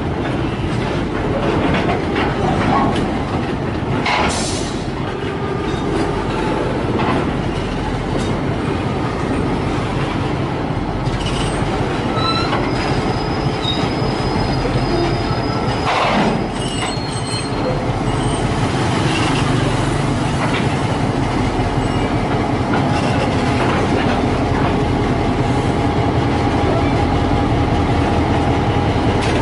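Freight train of rail tank wagons rolling slowly past, wheels clacking over the rail joints with short high wheel squeals and a clank about halfway through. In the last third a CC202 diesel-electric locomotive's engine hum comes in steadily as the locomotive draws near.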